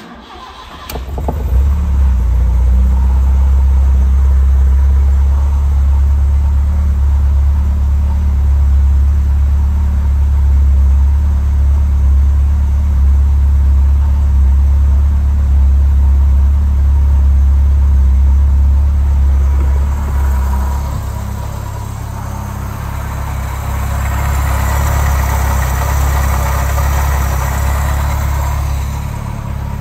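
1977 Fiat 124 Spider's twin-cam four-cylinder engine on a cold start, firing up over the first second or two and settling into a steady idle. In the last third it is heard up close under the open hood, with more high-pitched mechanical noise over a lighter rumble.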